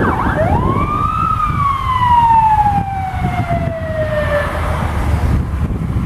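Emergency vehicle siren: a quick warbling yelp breaks off, then one wail rises and slowly falls away over a few seconds, over a steady low rumble.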